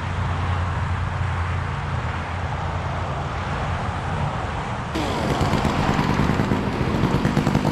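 Motor vehicle engine noise with road traffic: a steady low engine hum, which about five seconds in gives way abruptly to louder, rougher engine sound with a rapid pulsing.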